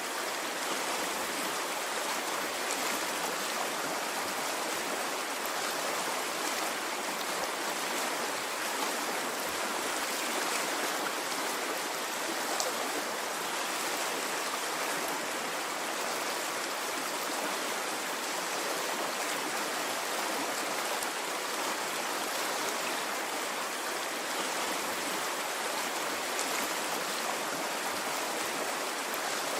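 Running water of a stream: a steady, even rush with no breaks.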